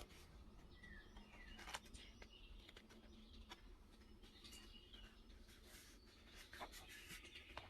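Faint birdsong of short chirps and whistled notes, one falling near the start, with scattered soft clicks and small pops, the sharpest just before two seconds in.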